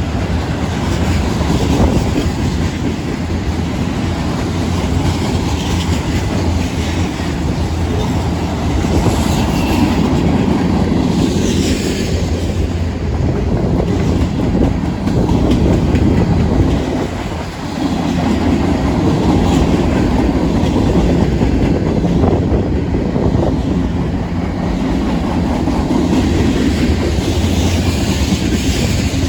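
Freight cars of a Union Pacific mixed freight train rolling past, a steady loud rumble with the clatter of wheels on the rails.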